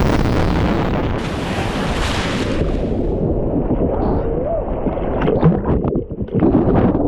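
River rapids rushing and splashing around a kayak, with wind buffeting the microphone. The hiss eases about three seconds in, leaving choppier splashing.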